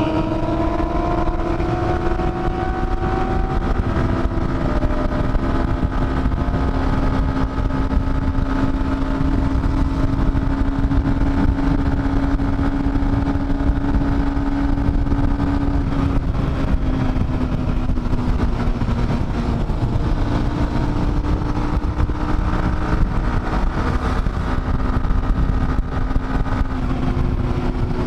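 Dafra Next 250's single-cylinder engine running at a steady cruise, its tone holding nearly level and easing down slightly about two-thirds of the way through, under heavy wind rush on the helmet microphone.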